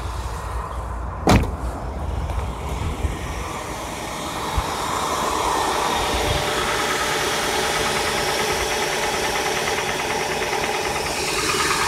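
2001 Acura TL's V6 idling just after a cold start, with a faint knock that shows only when the engine is cold; rod knock has been suggested as the cause. A single sharp clack comes about a second in, and the engine grows louder and steadier from about four seconds in.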